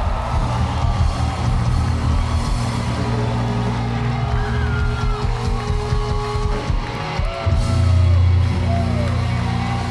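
A rock band playing live through a PA, with electric guitar over a sustained bass. Several notes slide up and down in pitch.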